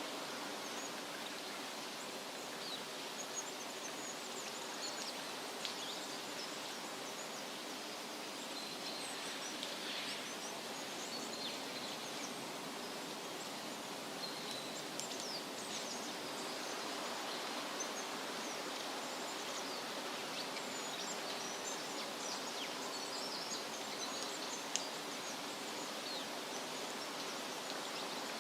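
Steady wind rustling through leaves, with many small birds chirping and trilling over it.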